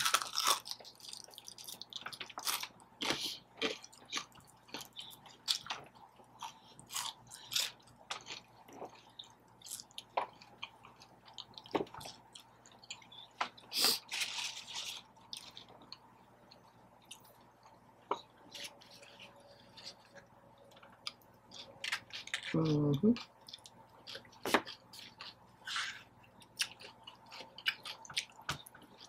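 Close-miked chewing and crunching of fried fast food, with many short wet mouth clicks and smacks. A brief falling vocal sound, like a hum, comes about 23 seconds in.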